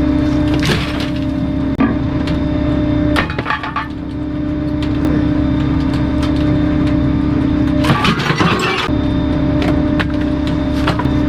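Refuse truck's compactor crushing bulky waste, with wood cracking and splintering in several sudden bursts, the longest and loudest about eight seconds in. The truck's steady hum runs underneath, dropping out briefly during the heaviest cracks.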